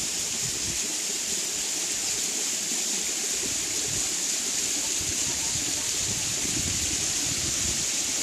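Waterfall running steadily, a constant hiss of falling water, with uneven low gusts of wind buffeting the phone's microphone.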